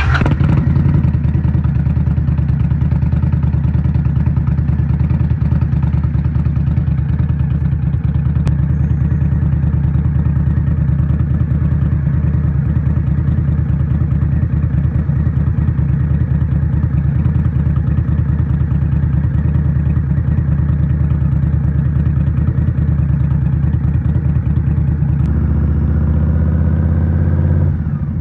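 2023 Indian Scout Rogue's 69 cu in V-twin with a Rinehart slip-on exhaust starts up and then idles steadily. Its note shifts slightly near the end.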